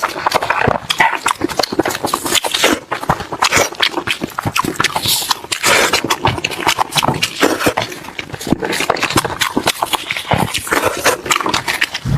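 Close-miked eating of braised pig head: loud, continuous wet chewing, lip-smacking and sucking, with quick clicks from the mouth.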